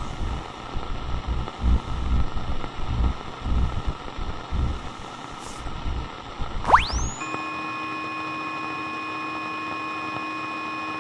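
Walkie-talkie radio static, hissing with low rumbles, then about seven seconds in a quick rising electronic sweep cuts to a steady electronic tone of several pitches that holds to the end.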